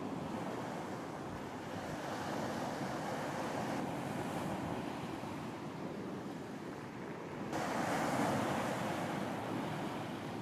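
Ocean surf on a beach: waves washing in and out in a steady wash. One wave breaks more strongly about seven and a half seconds in, then fades.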